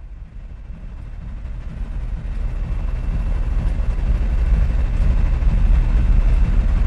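Low, steady rumbling noise on board a ship at sea, growing louder over the first few seconds.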